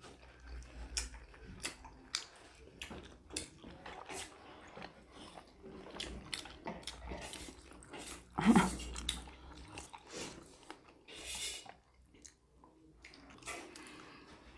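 People chewing and biting food close to the microphone, with many small wet mouth clicks and some crunching. A brief, louder sound comes about eight and a half seconds in.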